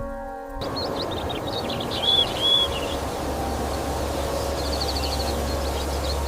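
Soft ambient music cuts off about half a second in, giving way to small birds chirping over a steady outdoor hiss. Two clear whistled notes come about two seconds in and a quick trill near the end, with a low rumble underneath from about halfway.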